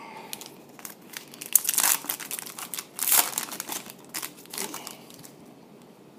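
Foil wrappers of football card packs crinkling and crackling as a pack is torn open and handled, in a dense run of sharp crinkles from about a second and a half in.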